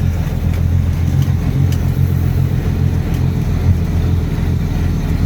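A vehicle's engine running steadily while driving, heard from inside the cab as a continuous low drone.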